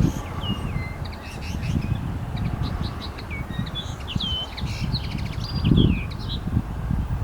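Small songbirds singing, a rapid run of short chirps and falling whistled notes, over gusty wind rumbling on the microphone.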